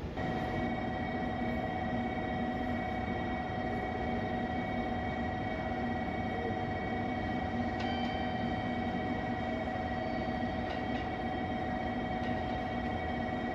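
Train running at a steady speed: a continuous rumble with several steady tones held at one pitch, and a couple of faint clicks partway through.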